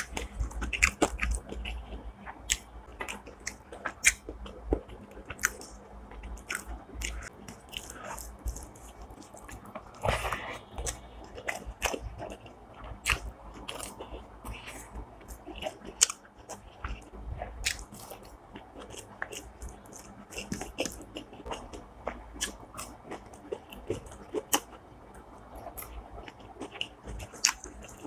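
A person chewing and biting food close to the microphone, with frequent crunches and sharp wet clicks at an irregular pace.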